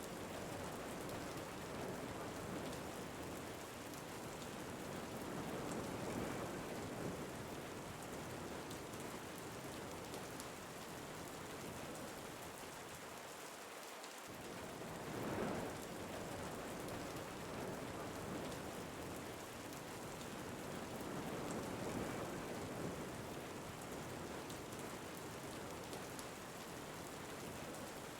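Steady rain falling, with wind swelling in slow gusts every several seconds, the strongest about fifteen seconds in.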